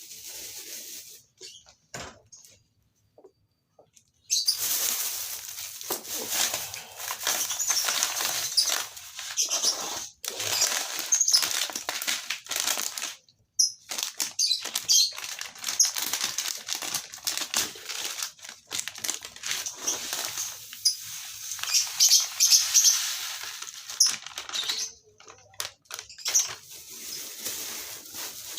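A colony of lovebirds chattering with rapid, shrill chirps, starting about four seconds in and running in long stretches with a couple of brief pauses.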